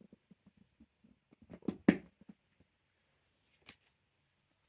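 Jigsaw puzzle pieces being handled and pressed into place on a table: a few light taps, with the loudest pair of clicks close together about two seconds in and a single fainter click near the end.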